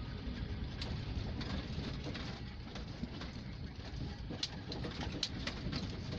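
A bird calling over a steady low rumble of outdoor background noise, with scattered faint high ticks.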